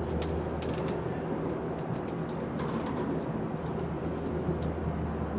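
A boat's engine idling steadily at the mooring, a low even hum, with a few faint ticks over it.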